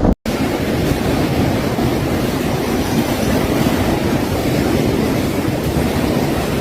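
Hurricane wind and heavy rain making a steady, even rush of noise, after a brief dropout right at the start.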